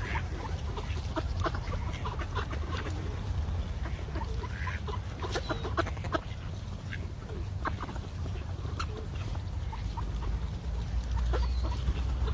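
Ducks and other park birds crowding around to be fed, giving soft clucking calls, with many short sharp clicks scattered through, over a steady low rumble.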